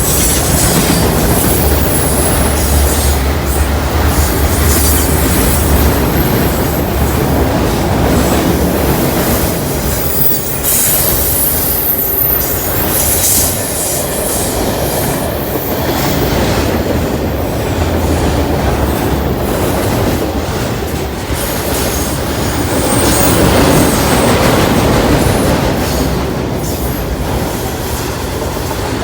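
CSX freight train's cars rolling past at speed: steel wheels clattering steadily on the rails, with high-pitched wheel squeal coming and going, strongest near the start and about ten seconds in.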